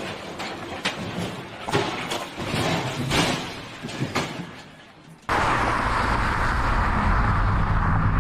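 A run of irregular knocks and clattering thumps that fades out, then an abrupt cut to the steady engine and road noise of a moving vehicle.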